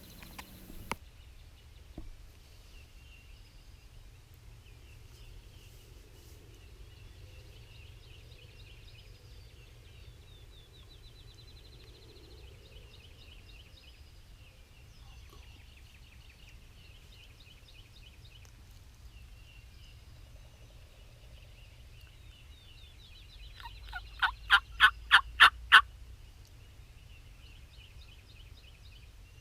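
Wild turkey hens flying in and landing: a run of about seven heavy wingbeats over two seconds, near the end, as they flap to brake, with faint songbirds singing before it.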